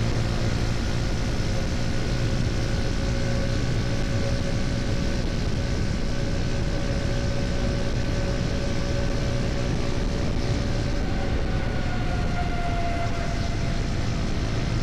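KTM Duke 250's single-cylinder four-stroke engine running steadily at cruising speed, mixed with road and wind noise. About three-quarters of the way through, the engine note rises in pitch.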